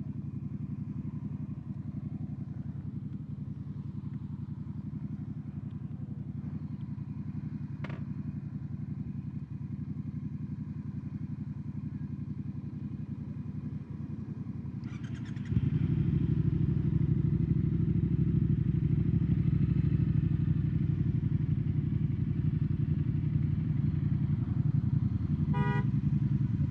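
2021 Triumph Speed Twin 1200's parallel-twin engine running through British Customs Turnout exhaust tips. It is steady at first, then suddenly louder and fuller about halfway through.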